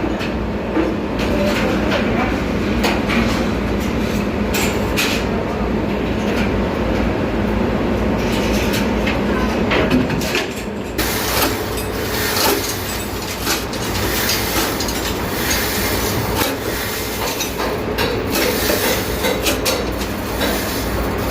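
Steady heavy machinery rumble with scattered metallic knocks and clanks, more frequent in the second half.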